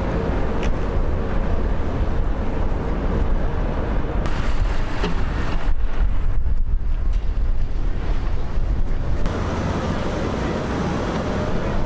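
Blizzard wind buffeting the microphone: a loud, steady rumbling noise that changes abruptly about four, six and nine seconds in.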